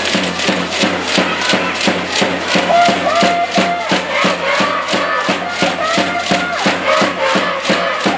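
A school cheering section in the stands at a volleyball match, chanting in unison over a fast, steady beat of about four strikes a second.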